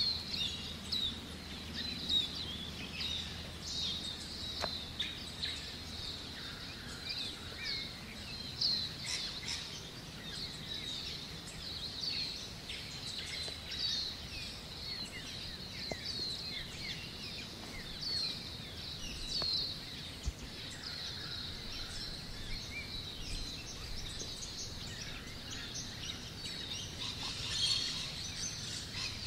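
A chorus of birds chirping and calling, with many short, quick notes overlapping without a break.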